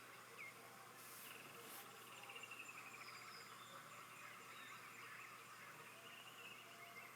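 Near silence: faint woodland ambience with a few distant high chirps and trills.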